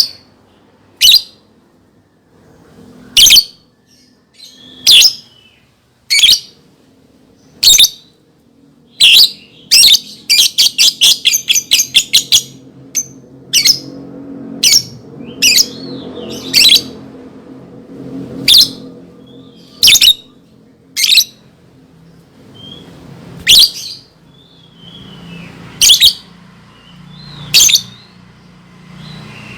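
Lovebird calling: loud, sharp, high chirps every second or two, with a fast chattering run of chirps about ten seconds in.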